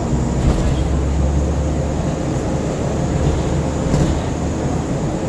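Scania N94UB single-deck bus's diesel engine running and road noise as it drives, heard from inside the passenger cabin, with a steady low rumble that deepens for a second or two near the start and a few light rattles.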